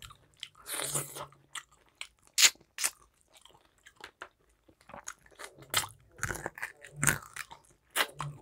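Close-miked eating sounds: wet mouth clicks and smacking while chewing curry with rice and meat, in scattered short bursts with a quieter stretch in the middle.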